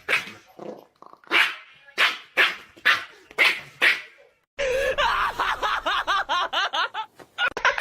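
A dog barking repeatedly, about two sharp barks a second; a little past halfway this gives way to a fast run of short high-pitched calls, about five a second.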